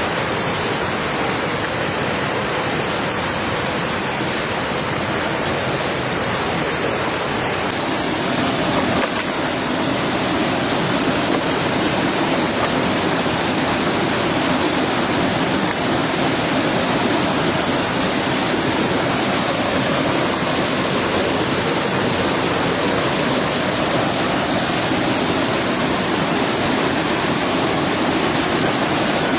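Heavy rain falling steadily, a dense even hiss that grows a little heavier about eight seconds in.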